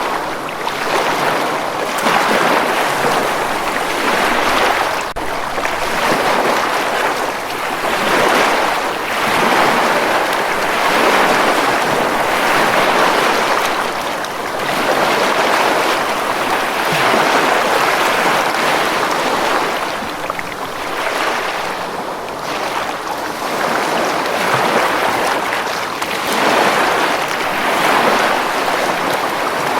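Ocean waves breaking and washing up a beach, a steady rush of surf that swells and eases every few seconds.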